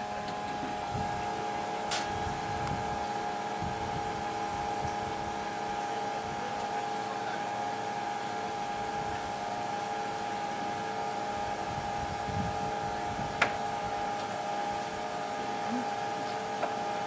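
Air taxi seaplane's engines running at a steady pitch, heard as a steady multi-tone whine and hum inside the cabin, with a couple of sharp clicks.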